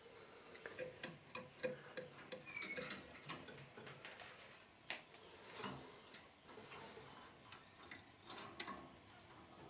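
Irregular light clicks and taps from a canary moving about its cage, with one short faint high note about two and a half seconds in.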